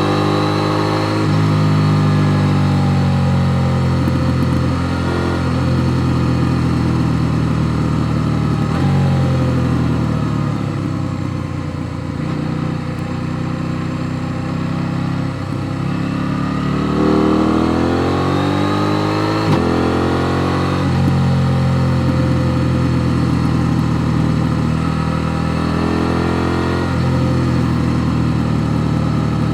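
KTM 890 Duke R's parallel-twin engine under way, heard from on board, its pitch rising and falling as the rider opens and closes the throttle. Twice, about a third and two thirds of the way through, the note steps abruptly as a gear changes.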